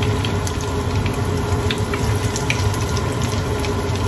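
Egg-battered cauliflower florets sizzling in hot oil in a skillet, a steady sizzle with scattered small crackles, over a steady low hum.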